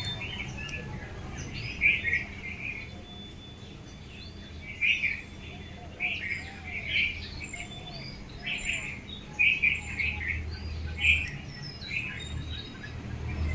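Birds chirping: a run of short, repeated calls, one or two a second, with fainter lower arching notes in between.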